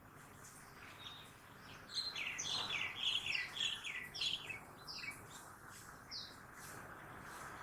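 A bird singing a quick run of short, falling chirps, about four or five a second, lasting about three seconds, then a few single notes. A faint steady rumble of morning city traffic lies underneath.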